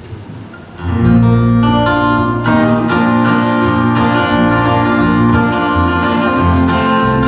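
Acoustic guitar strumming the instrumental introduction to a gospel song, coming in about a second in.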